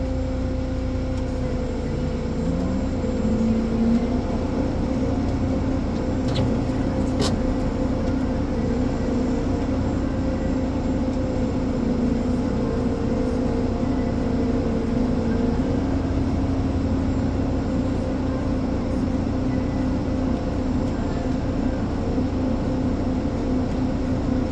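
Ponsse Elephant forwarder's diesel engine running steadily under hydraulic load while the crane loads wood, its pitch rising a step about two to four seconds in. A couple of faint clicks come about six to seven seconds in.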